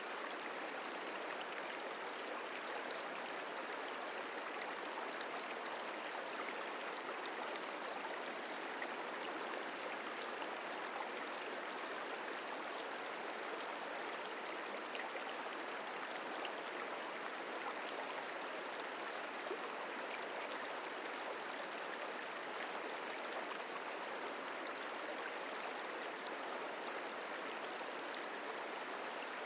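Merced River flowing, a steady even rush of running water.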